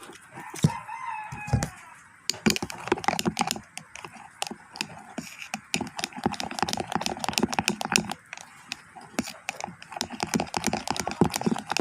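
Glue and soapy water being stirred and squished by hand in a bowl: a fast, uneven run of sticky clicks and squelches.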